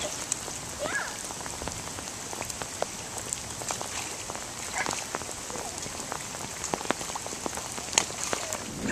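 Steady rain falling, with many individual drops ticking sharply close to the microphone.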